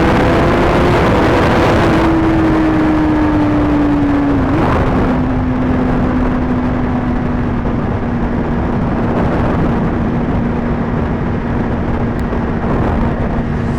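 Motorcycle engine running at a steady cruise under a heavy rush of wind on the helmet microphone. The engine note eases slightly lower, dips briefly about four and a half seconds in, then holds steady.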